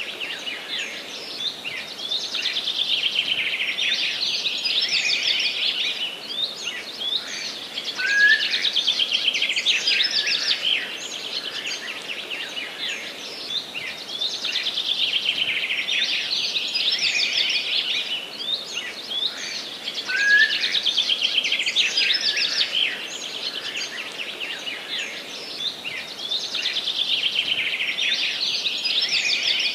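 Forest songbirds singing together: a dense chorus of rapid chirps and trills that swells and eases roughly every six seconds. Twice a short rising note stands out lower down.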